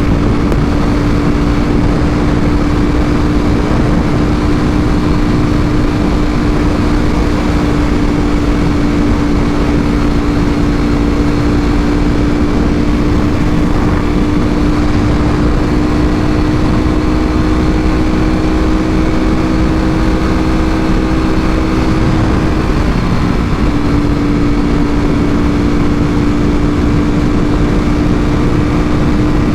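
Ducati Panigale V4R's 998 cc V4 engine, breathing through an Akrapovic full exhaust, holding a steady high-revving note while riding, with wind noise underneath. About 22 seconds in the note drops briefly, then comes back to the same pitch.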